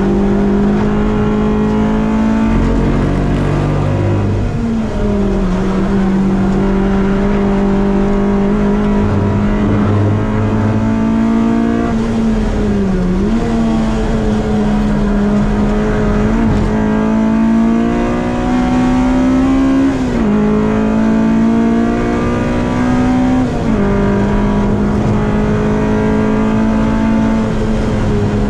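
Honda Civic race car's B-series VTEC four-cylinder engine pulling hard at high revs, heard from inside the cabin. Its pitch climbs under acceleration and drops sharply at each gear change, about every three to four seconds, over steady road and wind noise.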